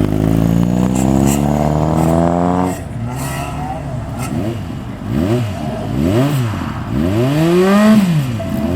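Motorcycle engine accelerating away, its pitch climbing steadily until it drops off about three seconds in. Then a motorcycle is revved in three throttle blips, each rising and falling, the last one longest and loudest near the end.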